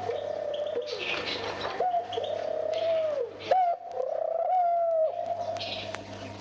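Turtle doves cooing in courtship: a run of four drawn-out coos, dying away about five seconds in, with a sharp click in the middle. A steady low hum from the old vinyl recording runs underneath.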